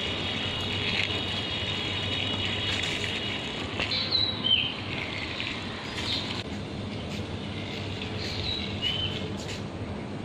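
Steady outdoor background noise with a bird chirping: a short falling call about four seconds in, and again near nine seconds.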